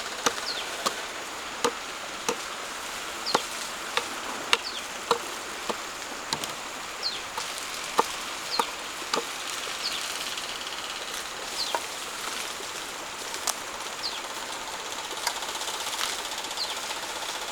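Hand tool striking wood in irregular sharp knocks, about one to two a second, over a steady hiss.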